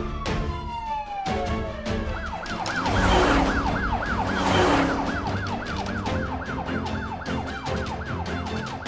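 Cartoon ambulance siren: a long falling tone over the first two seconds, then a fast yelp cycling about three to four times a second. A rushing noise swells and fades in the middle, over steady background music.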